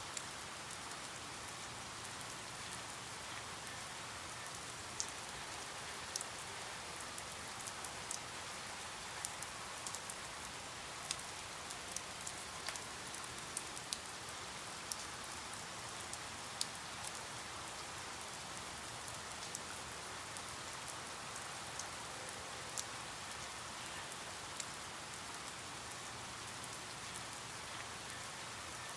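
Steady rain falling, an even hiss with scattered sharp drips of single drops.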